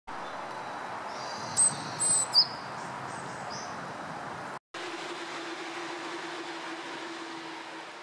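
Japanese tit giving three short, high-pitched calls about one and a half to two and a half seconds in, over a steady background noise that carries a low hum in the second half.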